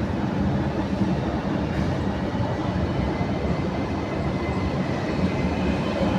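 Train running along the track close by: a steady, heavy rumble of wheels on rails, with a faint thin high whine over it.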